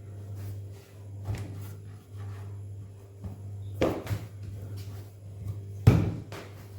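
Three dull thuds of batbout dough being gathered and pressed by hand in a bowl, the last the loudest, over a steady low hum.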